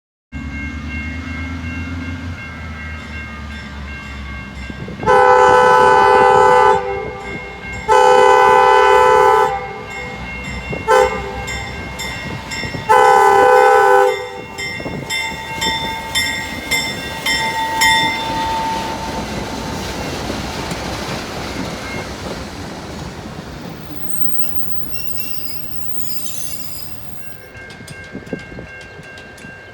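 Diesel locomotive horn sounding two long blasts, a short and a long, the standard grade-crossing signal, over the steady running of the engine. The train then rumbles past with a faint wheel squeal and light clicking from the rails.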